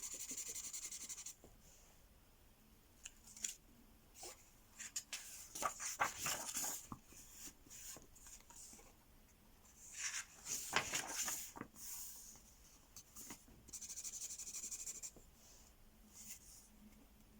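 Ink marker colouring on paper with quick back-and-forth scribbling strokes, in two spells: at the start and again about 14 seconds in. In between come short paper rustles and light handling taps.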